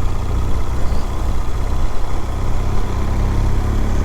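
The 2018 BMW R1200GS's boxer twin engine runs steadily with a low, even note and no revving.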